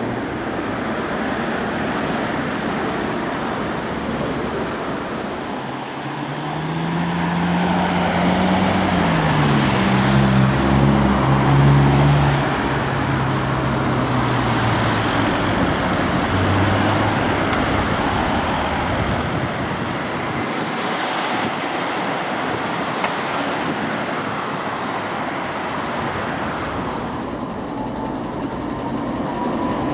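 Street traffic noise, with a road vehicle accelerating about six seconds in: its engine note climbs in steps, holds for several seconds, then fades back into the traffic.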